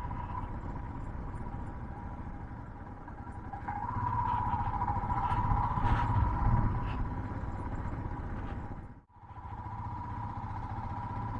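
Motorcycle running on a rough, broken road: a steady engine drone with low rumble, which swells about four seconds in and eases off again. The sound cuts out briefly about nine seconds in.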